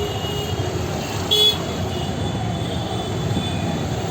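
Steady street traffic noise with a short vehicle horn toot about a second and a half in.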